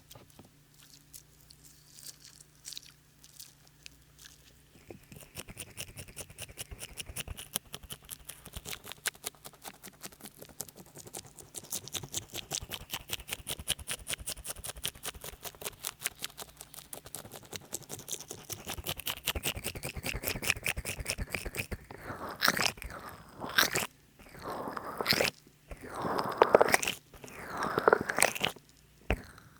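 Oil-soaked hands massaging a binaural microphone, making sloppy, wet squelching from too much oil. After a quiet start there is a fast run of fine wet clicks, and near the end come louder, separate squishy strokes.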